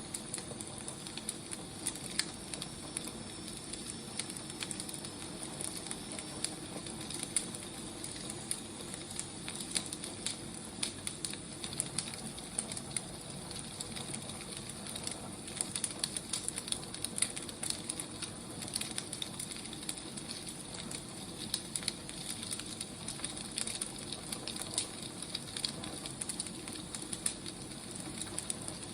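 Wood fire burning: a steady soft hiss with frequent irregular crackles and pops from the burning logs.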